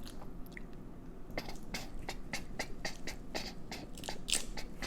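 Shell of a large boiled shrimp being peeled by hand close to the microphone: a quick run of wet crackling clicks, about four a second.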